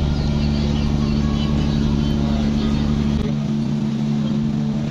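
A boat engine running with a steady, deep hum. Its lowest rumble drops away about three seconds in while the hum goes on.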